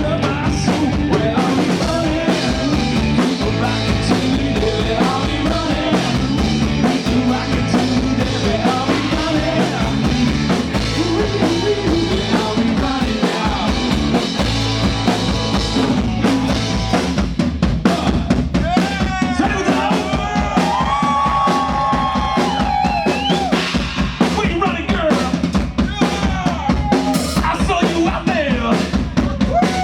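Live rock band playing an instrumental passage: the drum kit keeps a steady beat under bass and guitars, and in the second half a lead guitar plays long, bending, sustained notes.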